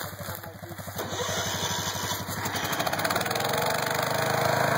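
Engines of a Suzuki King Quad 700 ATV and a 1976 Jacobsen GT14 lawn tractor running against each other in a tug-of-war pull, starting slow and getting louder from about a second in as they are throttled up under load.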